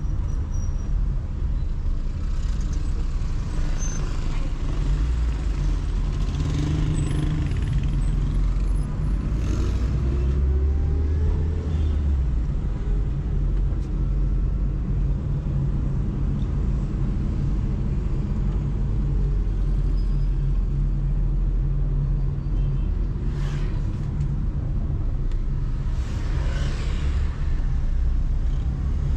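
Car driving through city traffic: a steady low rumble of engine and tyres on the road, with brief rushes of noise from vehicles going by, once about a third of the way in and twice near the end.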